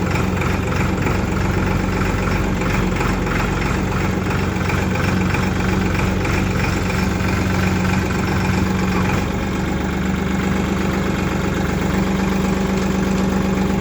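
Tractor diesel engine idling steadily, its tone changing abruptly about two-thirds of the way through.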